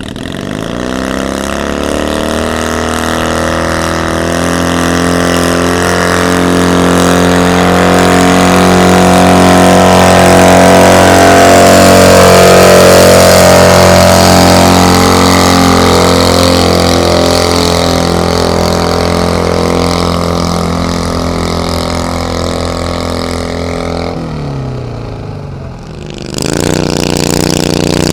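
Ford 5000 tractor engine run hard under load: the revs rise at the start and hold loud and steady for about twenty seconds, then fall away. Near the end it gives way abruptly to another engine running steadily.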